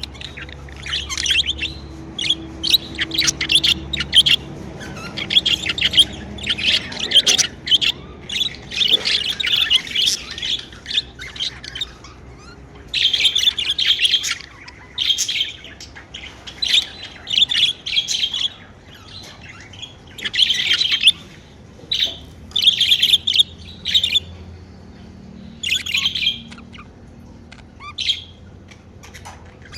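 Pet budgerigars chirping and warbling, a busy run of chirps at first and then short bursts every second or two.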